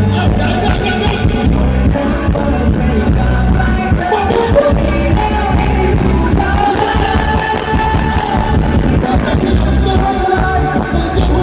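Loud live band music with a heavy, steady bass beat and a sung melody over it.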